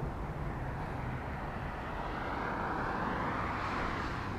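Engine and tyre noise of a passing road vehicle, swelling a little louder past the middle and easing off near the end.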